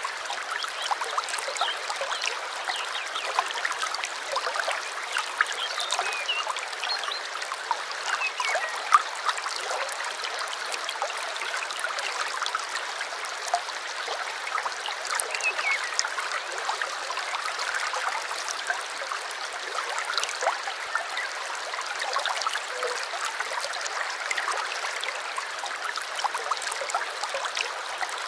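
A small stream babbling and trickling steadily over stones, with many small splashes and plinks throughout.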